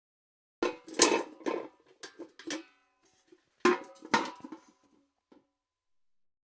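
Metal bucket clanking: a run of about five knocks with a metallic ring, then, after a short pause, a second run of about four knocks and a last faint tap.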